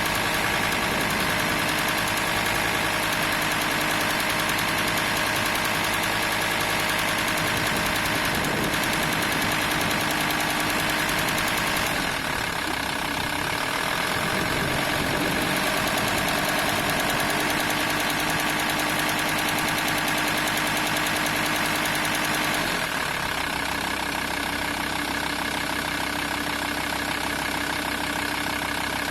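VW T4 2.5 TDI five-cylinder diesel running just above idle with a rattle from the serpentine belt area, which the owner takes to come from the belt tensioner pulley and hears only at 1050–1100 rpm. The engine note shifts twice, a little before halfway and about three-quarters of the way through.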